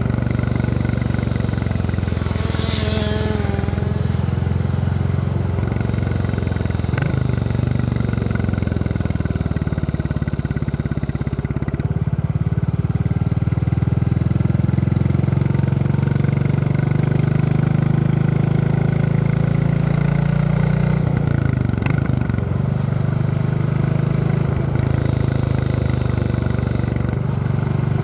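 Royal Enfield Classic 350's single-cylinder engine thumping steadily while riding. Its note dips and picks up again twice, around a quarter of the way in and again about three-quarters through.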